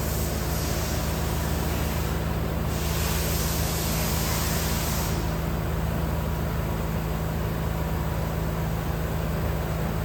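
Heavy vehicle's engine running steadily at a low hum, with a louder hiss from about two to five seconds in.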